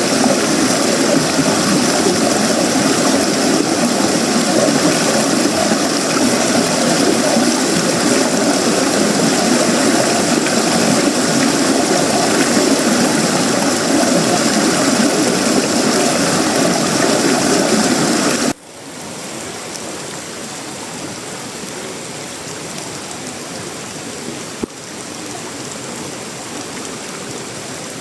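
Heavy tropical rain falling steadily. About two-thirds of the way in it drops abruptly to lighter, quieter rain, and a single short click follows a few seconds later.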